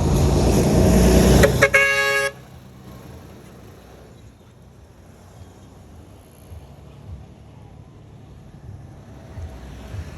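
A motor vehicle passes close by, with a short car horn toot just under two seconds in. The sound then drops suddenly to a low, steady street background.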